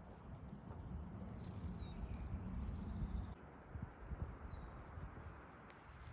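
A bird whistling twice, each a thin high held note about a second long that drops at the end, over a low rumble of wind on the microphone.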